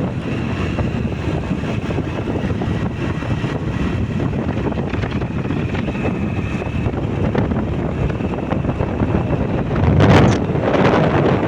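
Wind rushing over the microphone on a moving motorbike, with road and engine noise underneath. It swells louder about ten seconds in.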